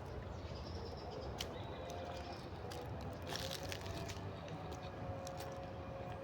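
Birds calling, with short high chirps over a steady low background rumble.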